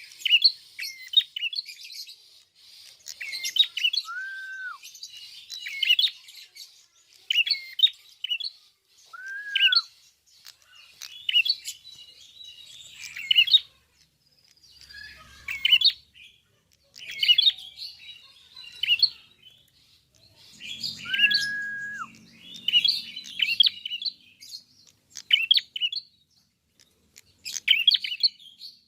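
A prinia singing continuously in rapid bursts of sharp, high chirping notes, one burst every second or two, with three lower slurred whistles that drop off at the end.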